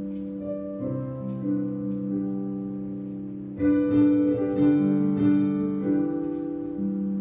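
Instrumental music on a plucked string instrument, slow sustained chords with no singing; a new, louder chord is struck about halfway through.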